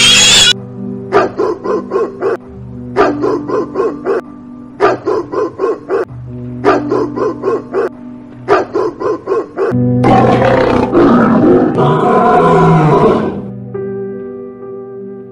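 A pig squeal cuts off about half a second in. A dog then barks in five quick bursts of rapid barks, about two seconds apart. Then a lion roars for about three seconds, over background music.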